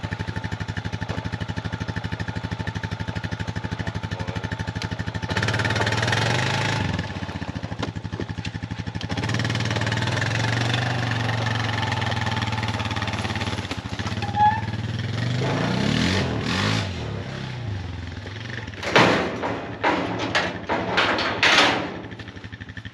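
Honda 400 ATV (four-wheeler) engine running with a steady pulse. It gets louder about five seconds in and rises and falls in pitch around sixteen seconds in. Near the end come a few loud short bursts.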